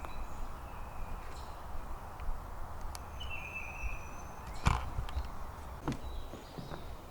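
Footsteps walking on a trail, with a few irregular knocks and scuffs, the loudest a little over halfway through. Two faint, long, high whistles sound in the background, one at the start and one around the middle.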